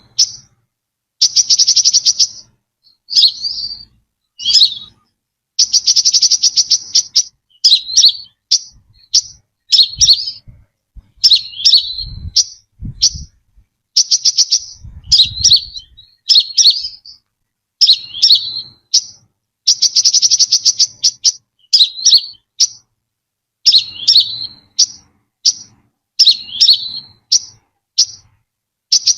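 Brown-throated sunbird calling over and over: sharp high notes that slur down in pitch, mixed with rapid buzzy trills about a second long, with only short gaps between phrases.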